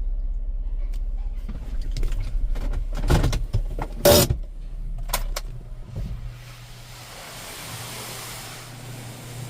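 Sounds inside a car: several clicks and one sharp knock about four seconds in, over a low engine rumble that stops about six seconds in, leaving a steady hum and a soft hiss.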